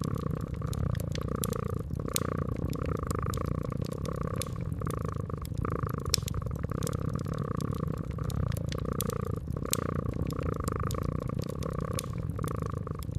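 Domestic cat purring steadily, the purr swelling and easing about twice a second, over the irregular crackle and pop of a wood fire.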